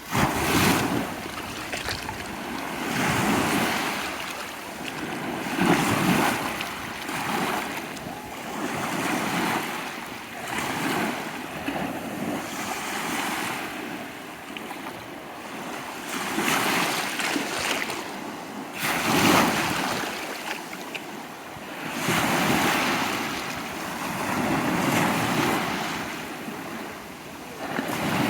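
Surf on the Sea of Azov: waves breaking on the shore one after another, each surge swelling and washing out over two to three seconds.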